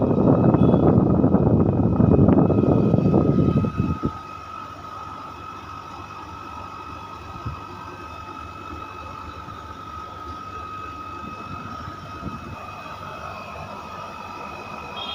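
Window air conditioner running with a steady hum and a thin high whine. A loud rushing noise covers it for about the first four seconds, then cuts off suddenly.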